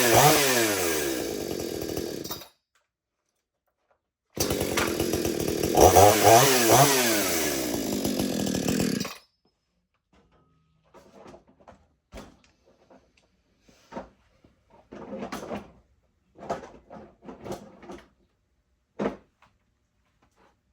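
Gas chainsaw engine running and revved with throttle blips, its pitch falling away after each one. It cuts to sudden silence about two and a half seconds in, comes back revving about two seconds later, and stops abruptly about nine seconds in. After that there are only faint scattered clicks and knocks.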